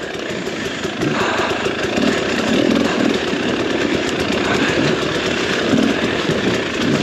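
Enduro dirt bike engine running while the bike is ridden off-road, its level swelling and easing a little.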